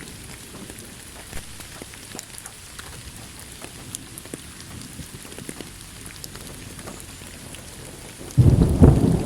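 Steady rain falling, with scattered drops ticking. Near the end a sudden, loud rumble of thunder breaks in.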